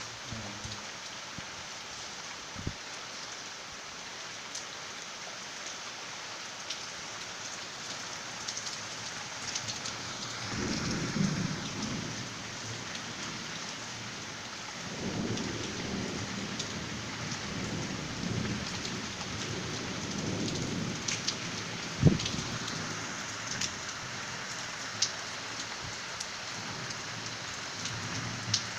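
Steady rain falling, with scattered sharp clicks of drops striking hard surfaces. Low rumbles of thunder swell about ten seconds in and again for several seconds from about fifteen seconds in, and a single sharp knock just after twenty-two seconds is the loudest moment.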